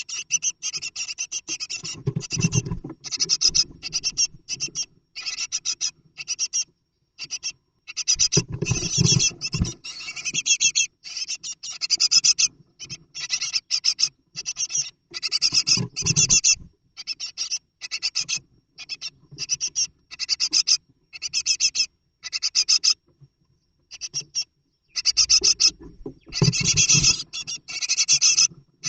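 Scratching and rustling inside a great tit nest box: many short scratchy bursts in quick succession, with a few low bumps as the bird moves against the box.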